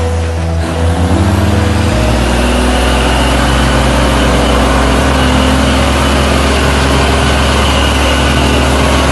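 Heavy truck engine running, with background music of held low notes that change pitch in steps.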